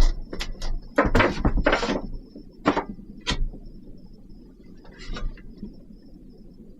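Wooden boards knocking and clattering as bed slats are handled and set in place: a quick run of irregular knocks in the first two seconds, then a few single knocks.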